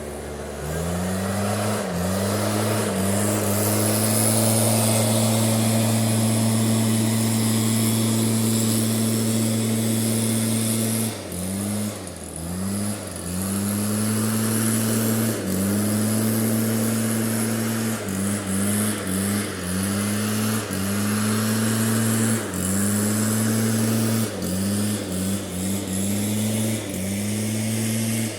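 Electric pressure washer motor starting up and running at a steady whine, then cutting out and restarting in short bursts as the trigger is squeezed and released, over the hiss of the water jet.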